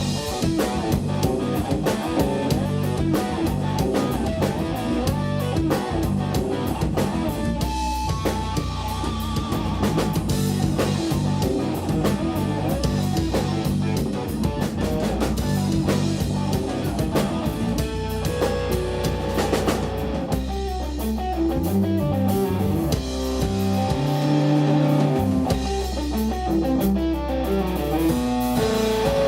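Live instrumental rock band playing: electric guitar over bass and drum kit. The drums thin out about twenty seconds in, leaving held guitar and bass notes.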